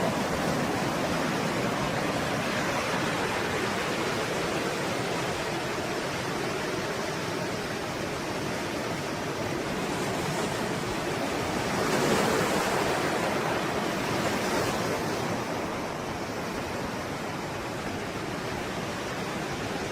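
Stormy sea waves breaking and washing in a continuous rush of surf, with a wave surging louder about twelve seconds in and a smaller one a couple of seconds later.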